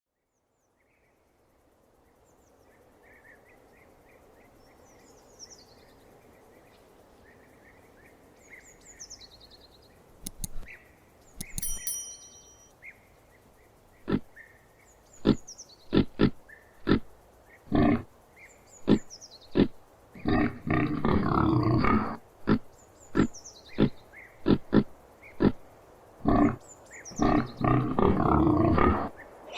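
Vietnamese pot-bellied pig grunting: a run of short grunts, with two longer squealing grunts. Before them is a quiet rural background with faint bird chirps.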